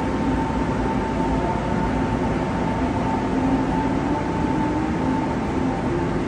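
Passenger train running at a steady speed: a continuous rumble with a steady hum over it.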